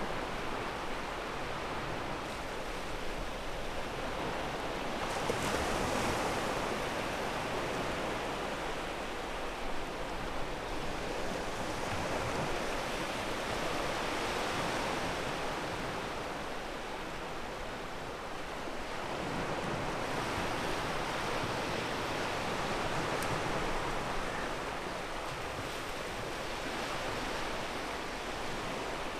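Ocean waves breaking and washing on a pebble beach, a steady rush of surf that swells and eases several times.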